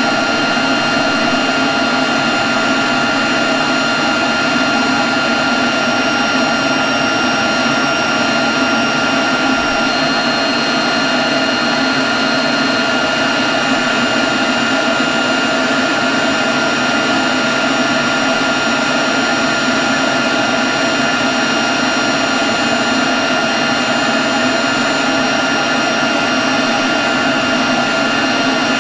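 Leaf blower running steadily, an even rush of air with a constant high whine over it.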